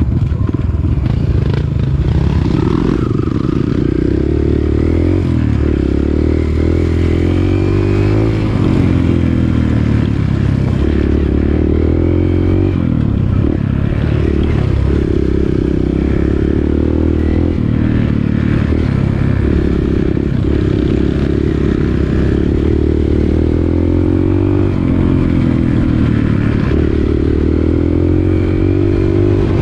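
Dirt bike engine running while riding a trail, its pitch rising and falling every few seconds with the throttle.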